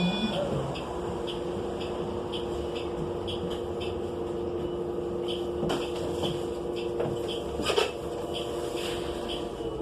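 A 2018 New Flyer XN35 transit bus's Cummins Westport L9N natural-gas engine idling steadily at a constant pitch, heard from inside the passenger cabin. A light tick repeats about twice a second, and there are two sharp knocks about six and eight seconds in.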